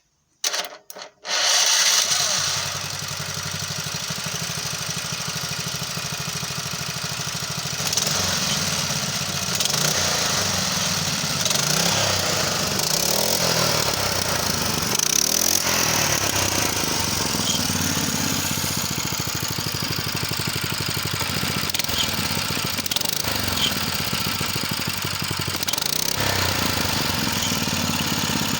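A 6.5 hp single-cylinder small engine is started with its electric starter. A few short cranking bursts come in the first second, and the engine catches and runs at about two seconds in. It then runs steadily, with its speed rising and falling several times in the middle.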